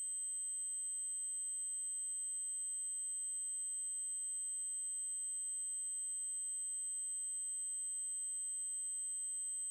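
Synthesized 8192 Hz triangle-wave test tone: a steady, unbroken high-pitched tone.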